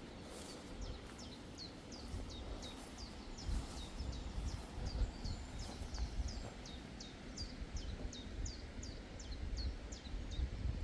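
A bird calling in a long, even run of short, high notes, each sweeping downward, about three a second, and stopping shortly before the end. A low rumble runs underneath.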